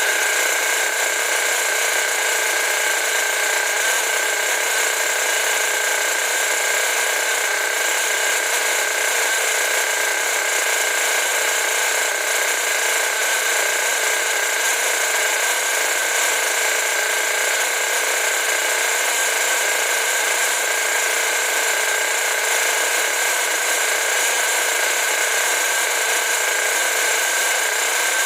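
Rebuilt Force .32 two-stroke nitro glow engine running steadily at high speed on a test run, a loud, even high-pitched whine that holds its pitch.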